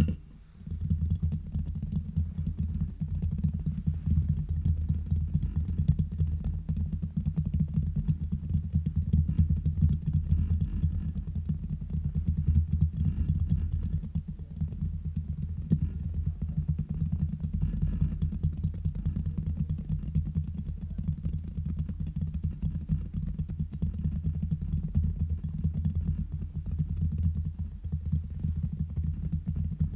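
Fingers tapping and scratching fast directly on a microphone: a dense run of quick, deep, muffled strokes that pauses briefly at the start and then runs on without a break.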